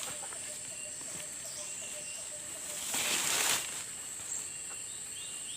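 Outdoor ambience with a steady high-pitched insect drone. In the first half, a run of soft, low chirps repeats about four times a second. About three seconds in comes a brief rustling rush, the loudest sound.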